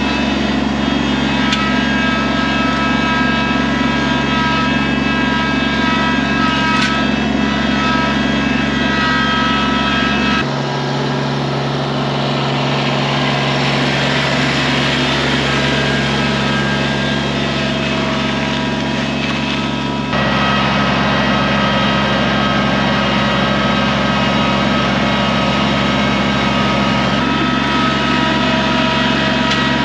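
Kubota BX23S sub-compact tractor's three-cylinder diesel engine running at steady revs while it tows a log chained to its rear quick hitch. The engine note is loud and even, with sudden shifts in tone about ten and twenty seconds in and again near the end.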